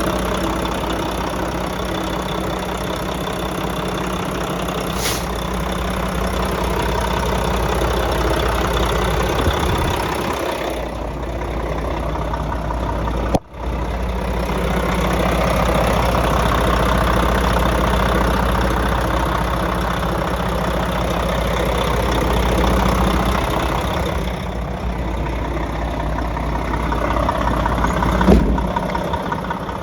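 Diesel engine of a 2019 Mack CXU Pinnacle tandem-axle semi truck idling steadily, cutting out for an instant about 13 seconds in.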